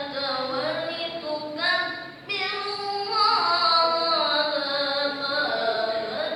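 Solo Quran recitation in the melodic tilawah style: one voice holding long, ornamented notes that bend up and down, with a short pause for breath about two seconds in.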